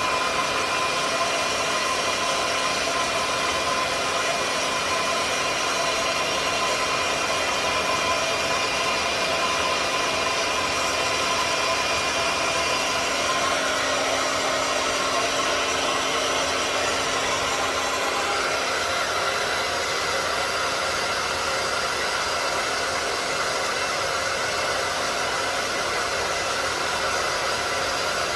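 Hair dryer running steadily: a constant rush of blown air with a steady whine.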